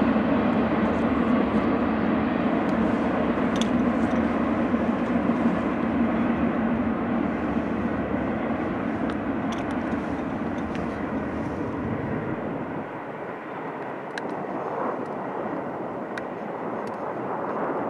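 Double-stack intermodal container train rolling by, a steady rumble of wheels on rail that fades as the last cars draw away. The deepest part of the rumble drops out about twelve seconds in, leaving a fainter hiss.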